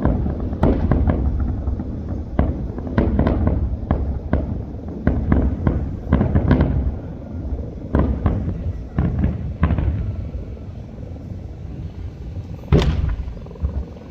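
Fireworks display: shells bursting in quick, uneven succession, sharp bangs over a steady low rumble, with one loudest, sharpest bang near the end.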